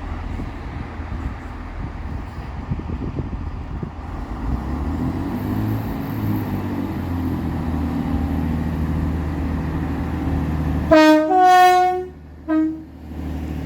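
Diesel train running as it draws near, its engine note rising, then its two-tone horn sounding about eleven seconds in: a short low note, a longer high note, and a brief low note again.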